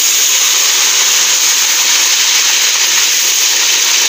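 Hot cooking oil sizzling loudly and steadily in a pan as food fries.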